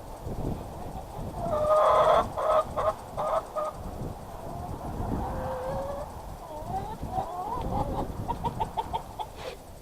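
Backyard chickens clucking and squawking: a loud burst of calls about two seconds in, then a quick run of short clucks near the end.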